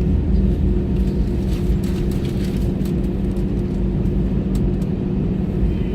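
Airbus A320 cabin noise: a steady low rumble with a constant engine drone, and a few light rattles about two and five seconds in.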